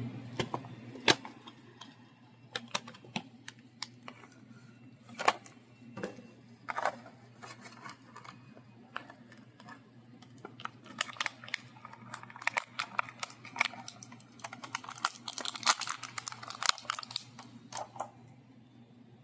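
Hands handling an action figure's packaging: scattered clicks and taps of plastic and cardboard, with a denser run of crinkling and rustling in the second half, over a steady low hum.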